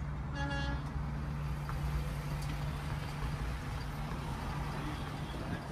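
Car running, heard from inside the cabin: a steady low engine hum with road and rumble noise. A short pitched beep sounds about half a second in.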